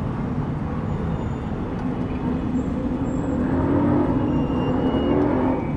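City street traffic: a steady rumble of traffic, with a motor vehicle passing close about two seconds in. Its engine note grows louder toward about four seconds in and fades near the end.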